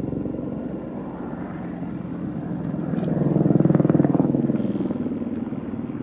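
Deep, steady rumble of a deliberately triggered avalanche running down the slope. It swells to its loudest about three seconds in, then eases off.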